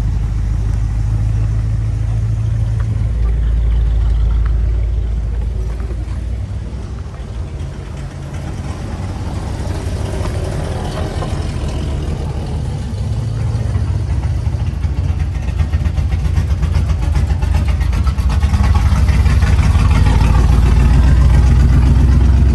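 Car engine idling close by with a deep, steady low rumble. It eases off in level about a third of the way through and builds louder again toward the end.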